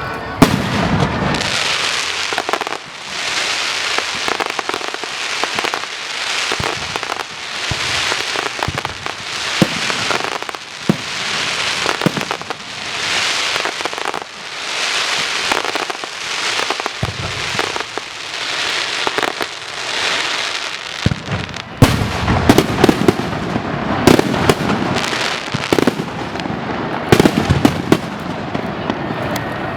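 Strings of firecrackers going off in a continuous crackle that swells and fades about every second and a half. Past the two-thirds mark the crackling turns denser, with many sharp louder bangs.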